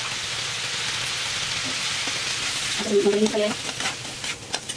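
Cauliflower sizzling in a kadhai, then a steel spatula scraping and clicking against the pan as the mix is stirred.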